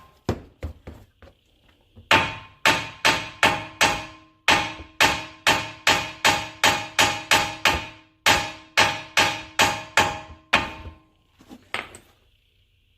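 Repeated hammer blows on metal, driving a new front strut up into its seat on the hub of a 2015 Mini Cooper Countryman. The strikes ring metallically and come in three volleys of about two to three blows a second, with short pauses between, then a few light taps near the end.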